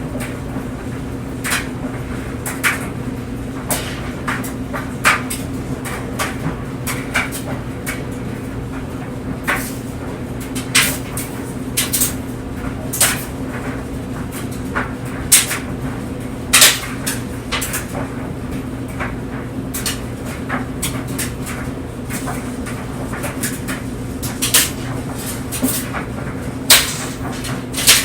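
Tumble dryer running: a steady motor and drum hum with clothes tumbling inside, and irregular light knocks and clicks as items drop against the drum, a few of them louder.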